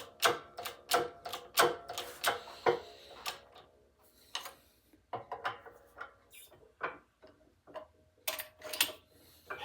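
Hammer tapping a new bushing into its bore: sharp metal taps, about three a second at first, then scattered, with a short run of harder taps near the end as it seats.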